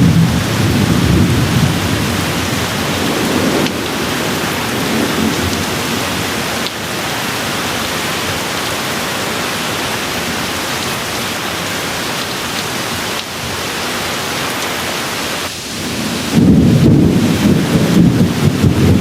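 Steady rain with rolling thunder: a low rumble dies away over the first few seconds, the rain hiss carries on alone, and a fresh roll of thunder starts near the end.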